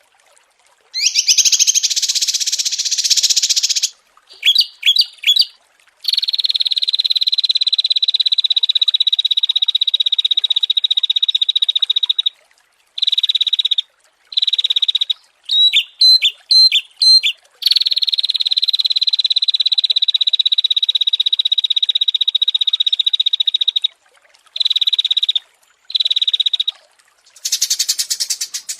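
Small songbirds singing in a masteran (song-tutor) recording: long, rapid, high trills that each run unbroken for about six seconds, twice, with shorter buzzy phrases and quick chip notes between them.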